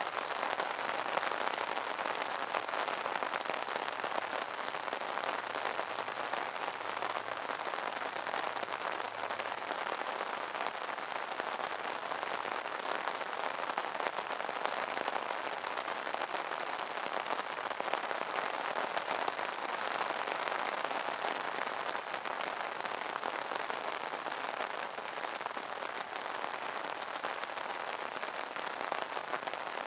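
Steady rain falling on an umbrella: a dense, even patter of drops on the fabric canopy.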